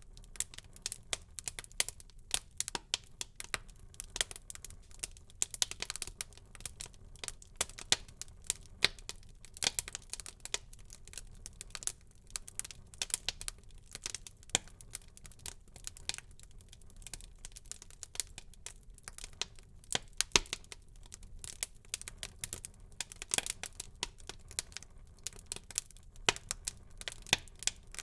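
Wood fire burning in a fireplace: dense, irregular crackling and popping of the burning logs over a faint steady rush of the flames.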